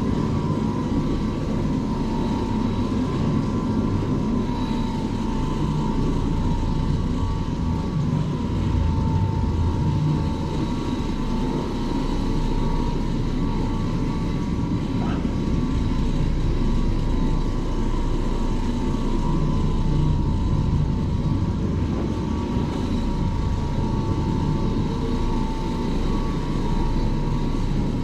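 Carpet-cleaning machine's electric motor running steadily, with a constant whine over a low rumble.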